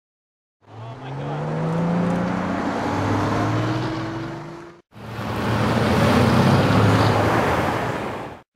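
Bugatti Veyron's quad-turbo W16 engine accelerating, its pitch rising steadily for about four seconds. After a brief break, a second stretch of dense car engine noise swells and fades.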